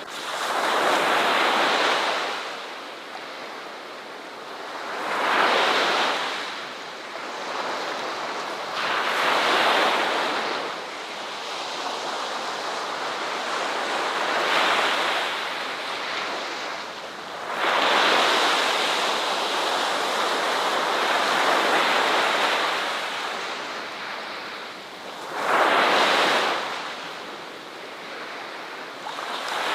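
Ocean waves breaking on a beach: surges of surf swell and fade every few seconds, with one long wash lasting several seconds in the middle.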